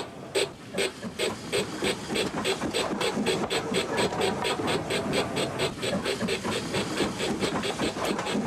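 Model steam locomotive's sound unit chuffing as the engine pulls away, the beats quickening from about two to about five a second and then holding steady over a faint hiss.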